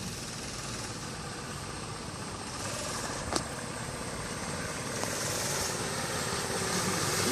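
Small single-cylinder engine of a mini bike running, heard from a distance and growing louder toward the end, with a brief sharp click about three seconds in.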